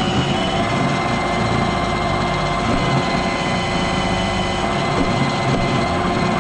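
iRobot Roomba robot vacuum running: a steady motor hum with several held tones over a constant noise of its fan and brushes.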